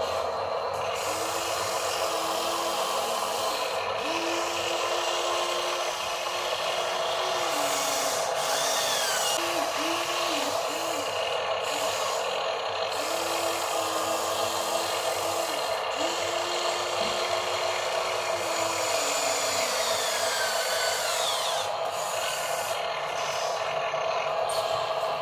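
Small electric motors of radio-controlled construction models whirring steadily, with a lower motor whine that starts and stops every few seconds, sliding up in pitch as it starts and down as it stops.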